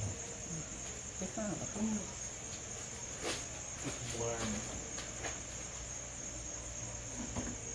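Crickets trilling in a steady, high-pitched chorus, with faint voices in the background and a couple of light clicks.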